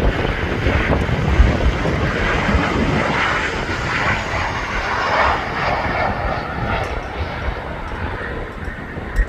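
Jet airliner engine noise as a large Boeing passes, fading toward the end, with gusty wind rumbling on the microphone.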